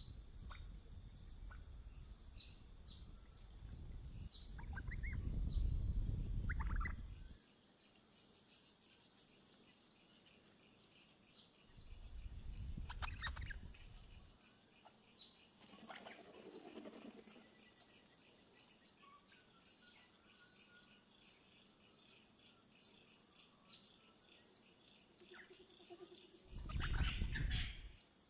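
Outdoor birdsong: a high chirp repeated steadily about two to three times a second, with louder calls from other birds breaking in now and then, the last near the end. A low rumble comes and goes under it, strongest in the first seven seconds and again near the end.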